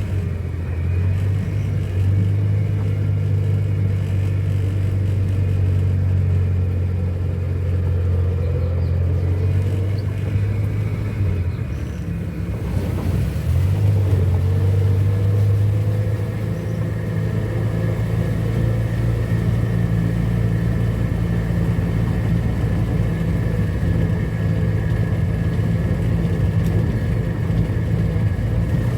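Ford Corcel's small 1.4 four-cylinder engine running steadily as the car is driven. Its note dips about twelve seconds in and picks up again a second or so later.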